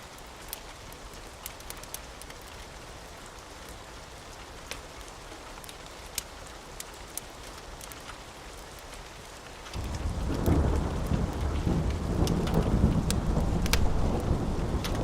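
Steady rain with scattered sharp crackles from a wood fire. About ten seconds in, a loud roll of thunder rumbles in and keeps going.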